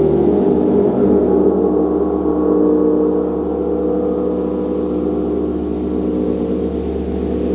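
A gong ringing in a sustained, dense wash of many overlapping steady tones, its level easing slightly about three seconds in.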